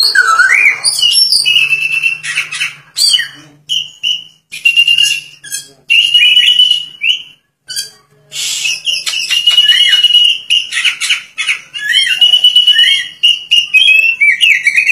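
Oriental magpie-robin singing loudly and persistently: phrases of clear whistled notes on a steady pitch, mixed with quick rising-and-falling slurs and harsh squawky notes, broken by short pauses about three and eight seconds in. A faint low hum lies underneath for the first half.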